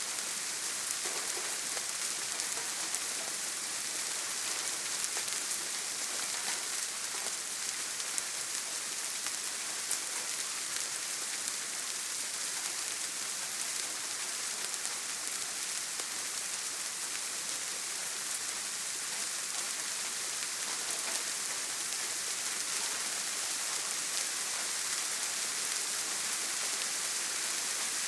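Steady heavy rain on a tin roof: an even hiss with a few faint single drop ticks, and no thunder.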